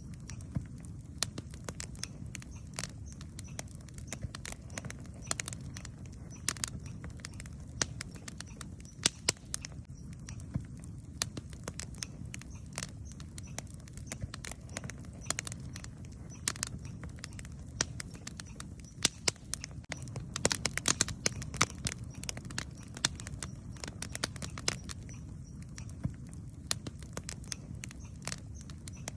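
Wood campfire crackling and popping in irregular sharp snaps over a steady low rumble of the burning fire, with a flurry of louder pops about two-thirds of the way through.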